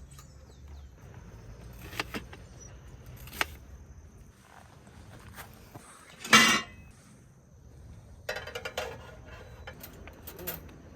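Scattered knocks and clinks of small objects being handled, the loudest a brief clattering burst about six seconds in and a quick run of clicks a little later, over a faint steady high insect drone.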